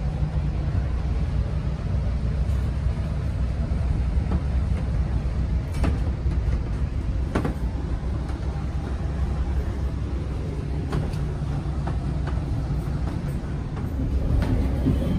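Steady low rumble of a Bombardier BiLevel commuter coach running on the rails, heard from inside the coach, with a few sharp clicks and knocks scattered through it.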